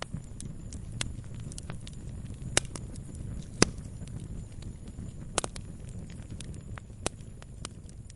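Wood fire burning in a fireplace: a steady low hum of flames under irregular sharp crackles and pops, the loudest pops about two and a half, three and a half and five and a half seconds in.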